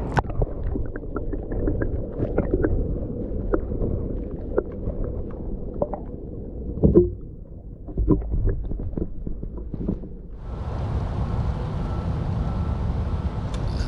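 Choppy water lapping and slapping against a canoe's hull, with many small knocks and clicks from the boat and gear. About ten seconds in, a hiss of wind on the microphone joins it.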